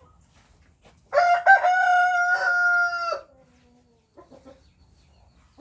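A rooster crowing once: a single loud call held at a steady pitch for about two seconds, starting about a second in.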